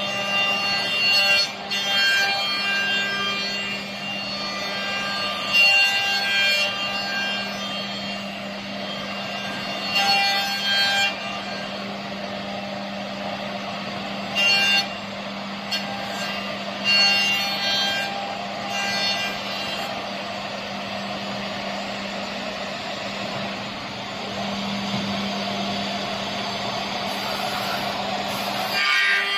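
CNC router machine running: a steady hum with high whining tones that come and go, and brief louder bursts every few seconds.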